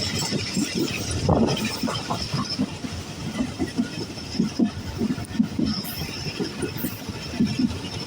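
Passenger train running on the rails: a steady rumble with irregular knocks and rattles from the wheels and coaches.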